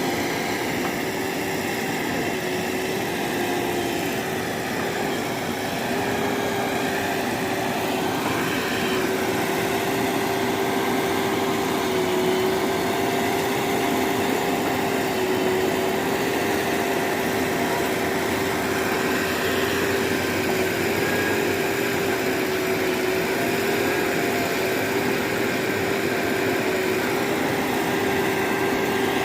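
Heavy diesel vehicle engine running steadily, with a steady whine at one pitch over it.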